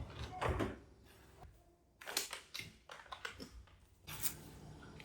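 Household handling noises: a few short rustles and light knocks, with a quiet gap about a second and a half in, then a quick run of clicks and rustles.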